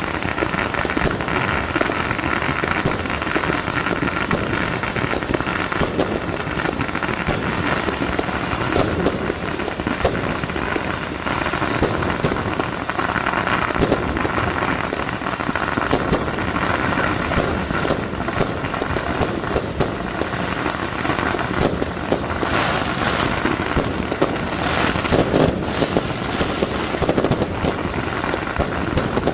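Fireworks and firecrackers going off continuously: a dense stream of sharp cracks and pops with crackling, thicker toward the end.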